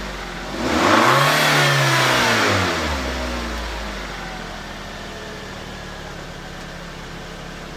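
Nissan Sentra's 1.8-litre four-cylinder QG18DE engine revved once about half a second in. It is held high for about two seconds, then drops back and settles to a steady idle.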